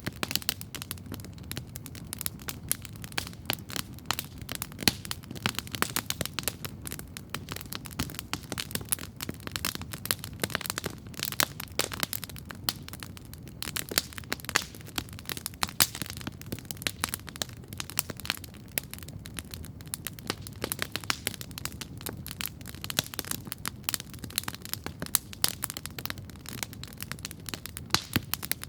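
Wood campfire burning and crackling steadily, with dense, irregular sharp pops and snaps over a low steady rumble of the flames.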